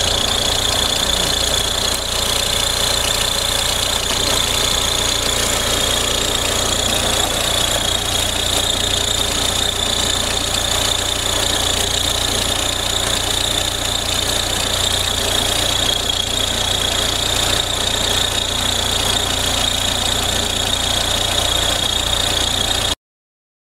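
Audi A4 B6 1.9 TDI four-cylinder turbodiesel running at idle, with a steady high-pitched whine over the diesel clatter, a noise the mechanic traces to the accessory-belt tensioner.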